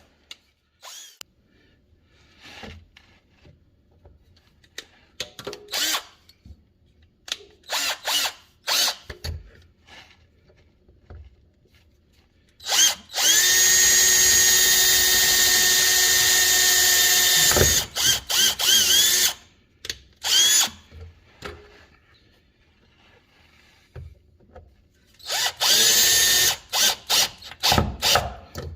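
Power drill: a few clicks of handling, then a steady high-pitched run of about four seconds drilling a hole for a screw, a few short trigger bursts, and near the end a series of short stop-start runs.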